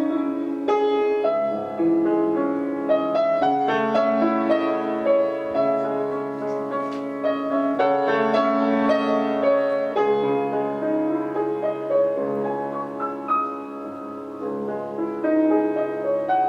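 Piano playing an instrumental interlude between sung verses of a chanson, a continuous run of struck notes and chords with no voice.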